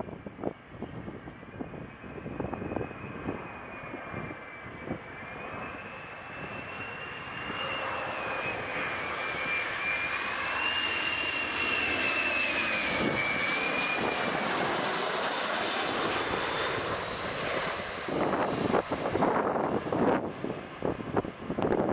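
Boeing 737-300's CFM56-3 turbofan engines whining on approach, with a high whine that wavers in pitch, growing louder as the jet passes and then fading. Gusty wind buffets the microphone, strongest near the end.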